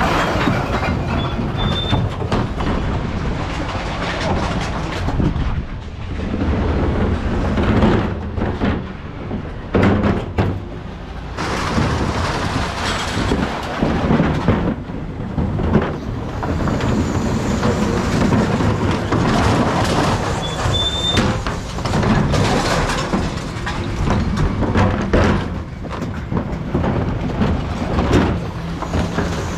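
Mercedes Econic refuse truck's rear bin lift working with its engine running: irregular clattering and banging as wheelie bins are lifted, tipped and emptied into the body.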